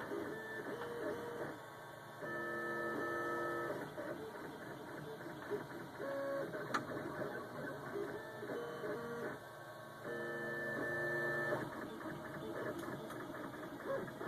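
MakerBot Replicator 3D printer printing: its stepper motors whine in several steady tones at once that jump to new pitches with each move of the print head, over a constant mechanical hum. The tones are loudest for a second or two at a time, twice.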